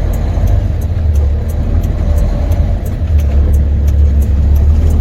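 Semi truck's diesel engine running under way, a steady low rumble heard from inside the cab.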